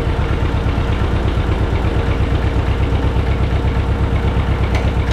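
John Deere 630's two-cylinder engine running at a steady idle with an even, pulsing exhaust beat. Mixed in is the ticking that comes from a small exhaust leak at the manifold.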